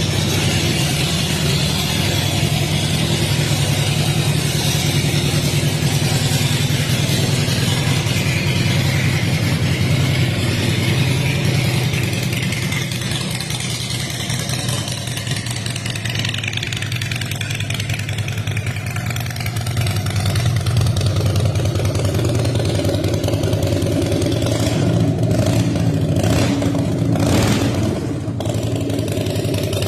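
Engine of a 2001 Harley-Davidson Heritage Softail Classic, a 1,450 cc Twin Cam 88B V-twin, running steadily at idle, with a few sharp clicks or crackles near the end.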